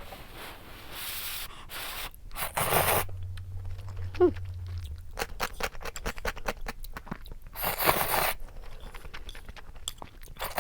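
Close-miked eating of cup noodle soup: chewing with many small wet clicks, and a few longer hissing slurps.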